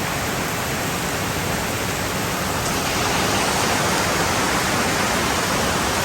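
Heavy rain pouring down: a steady, even hiss of falling water that grows slightly louder about three seconds in.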